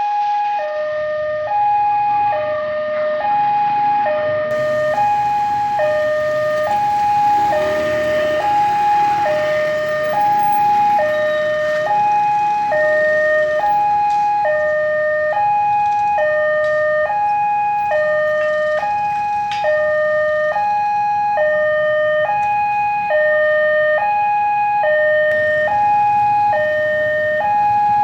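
Railroad level-crossing warning alarm: an electronic two-tone signal that switches steadily between a low and a higher tone about every three-quarters of a second, sounding to warn that a train is approaching and the gates are closing.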